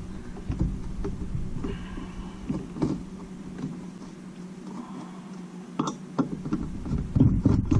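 Handling noise from tools and engine parts on a workbench: scattered light clicks and knocks, with a few louder knocks near the end, over a steady low hum.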